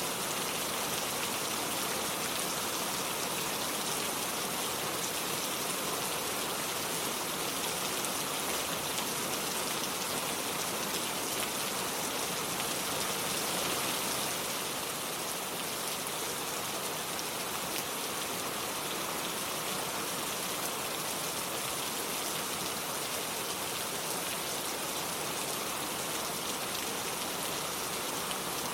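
Steady rain falling, an even hiss that turns slightly softer about halfway through.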